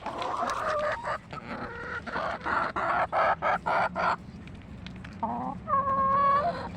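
Hens clucking in a quick run of short calls, then one longer drawn-out call about five seconds in.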